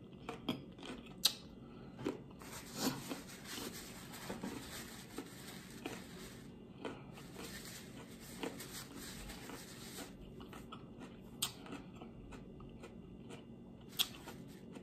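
Close-up chewing and crunching of raw salad vegetables such as cucumber, with soft scattered mouth noises and a few sharp clicks.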